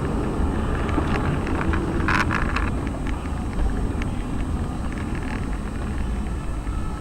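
A car driving, with steady road and engine rumble. A short, higher-pitched sound cuts in about two seconds in, and light clicks are scattered through.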